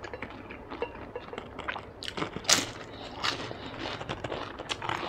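Crunching and chewing of a crispy fried Vietnamese spring roll (chả giò), with a run of sharp, crackly crunches about two and a half seconds in.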